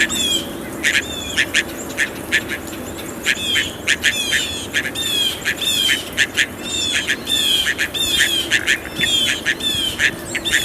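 Blue jays giving a rapid series of harsh, squawking jay calls, in runs of several with short gaps between.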